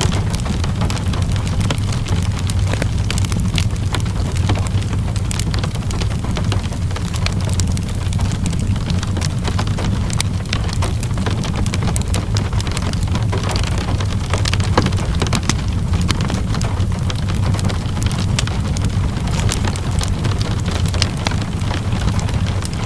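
Steady rainfall mixed with a crackling wood fire: a constant low rumble with many scattered sharp crackles and pops.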